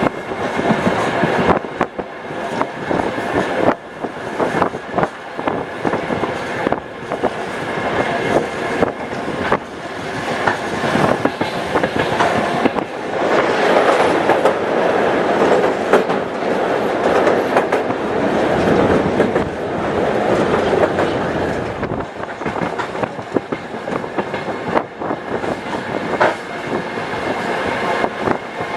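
Passenger train running at speed, the wheels clicking irregularly over the rail joints over a steady rumble with a faint high whine. The rumble swells louder for several seconds in the middle.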